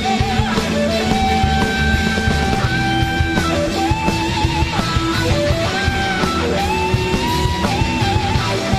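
Blues-rock band playing, with an electric guitar lead of long, bent notes with vibrato over bass and drums.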